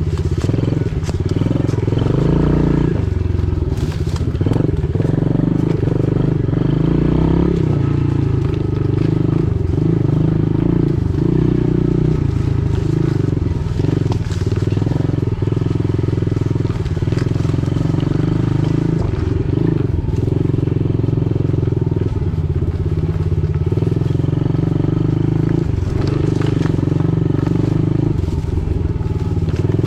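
Pit bike engine running continuously under throttle, its pitch shifting up and down every second or two as the rider works the throttle.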